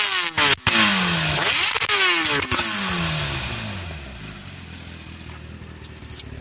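Superbikes passing one after another in quick succession, each engine note dropping in pitch as it goes by. The noise fades away after about three seconds.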